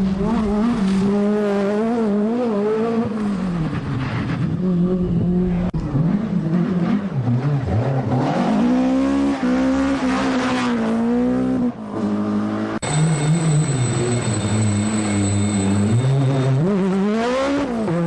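Group B rally car engines revving hard, their pitch climbing and dropping again and again through gear changes and lifts, in a run of short clips that cut abruptly from one car to the next. A thin high whine joins in the second half.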